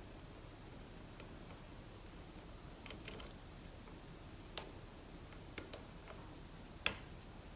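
Lock pick and tension wrench working the pins of an Assa Abloy Arrow pin-tumbler lock, giving scattered small sharp clicks, with a brief cluster of clicks about three seconds in.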